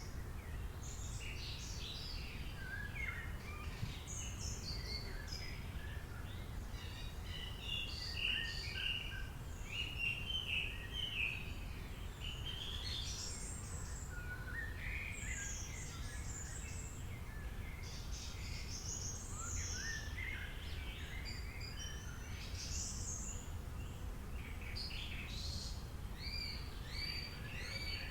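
Several songbirds singing and calling at once, a continuous mix of short chirps, rapid trills and whistled notes, over a steady low background rumble.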